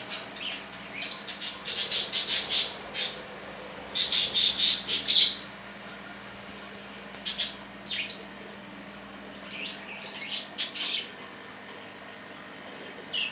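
Budgerigars squabbling, giving harsh, high-pitched squawks in short rapid clusters, separated by brief pauses.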